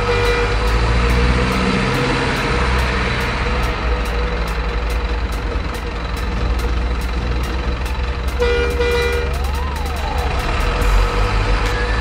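Truck engine sound running with a steady low rumble, a horn sounding briefly near the start and again about eight and a half seconds in, followed by a single rising-then-falling siren-like glide.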